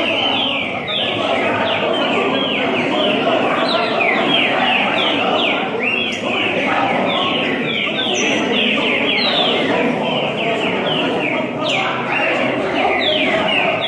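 Many green-winged saltators (trinca-ferro) singing at once: a dense chorus of overlapping short, falling whistled notes that runs without a break, over a steady background hubbub.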